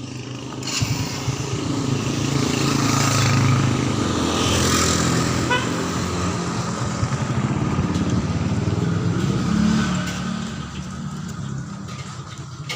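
A motor vehicle engine running, loud and steady, swelling about a second in and fading away near the end.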